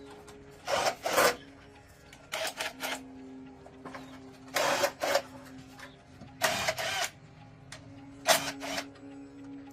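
Short, irregular bursts of hand-tool work on an electric kettle, each about half a second long and coming every second or two, over a faint steady hum.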